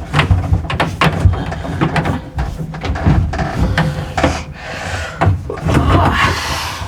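PEX water supply tubing being fed and pulled through holes in the subfloor and wall framing, scraping and knocking against the wood in an irregular run of knocks and rubbing.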